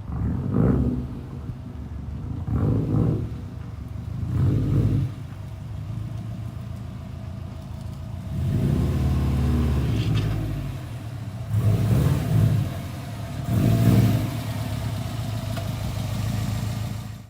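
Car engine idling and being revved in short blips about six times, with one longer rev about halfway through. It cuts off suddenly at the end.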